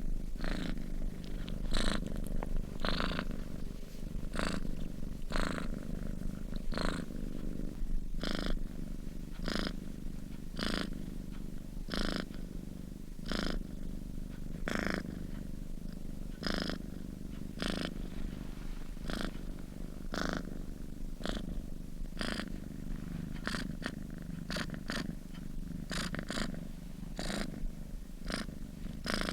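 A sleeping domestic cat purring close up: a steady low rumble that swells in a regular rhythm with each breath, about once a second.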